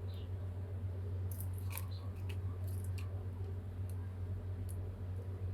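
Kitten playing in Christmas tree branches: scattered light clicks and crinkles, a few at a time, over a steady low hum.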